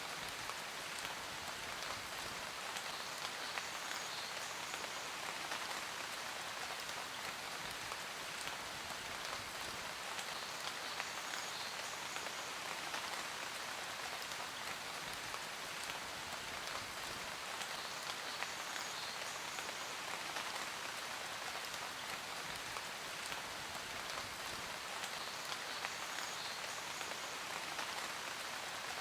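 Steady rain falling on a surface, a dense, even patter of drops with no let-up.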